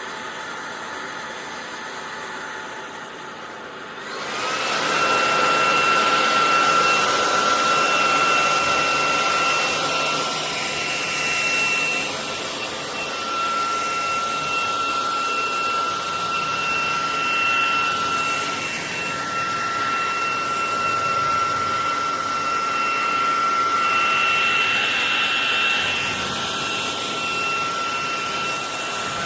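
Cordless stick vacuum cleaner (SunSare X11) switching on about four seconds in, then running with a steady high whine over a rushing of air.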